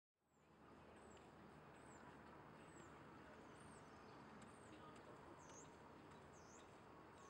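Faint outdoor background hush with a small bird's high chirps repeating about once a second, fading in just after the start.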